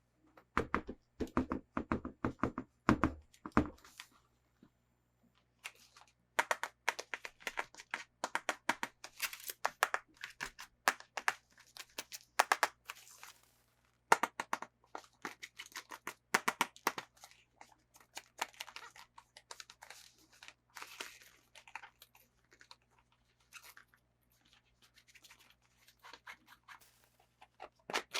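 Hands opening toy packaging: plastic and cardboard tearing and crinkling in dense runs of small clicks and scratches. There are several dull thuds in the first few seconds, and the handling grows sparser near the end.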